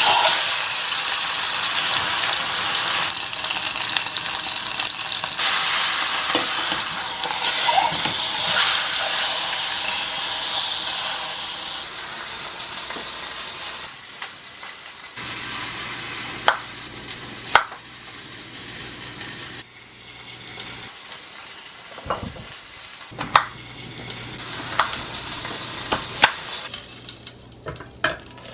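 Food frying in hot oil in a pan: a loud sizzle that starts suddenly and eases off after about fifteen seconds. In the second half, a utensil knocks and clinks sharply against the pan several times.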